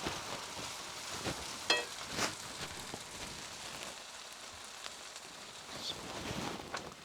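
Stir-fried noodles sizzling in a hot pan as they are tossed and mixed, with a few sharp clinks of a utensil against the pan.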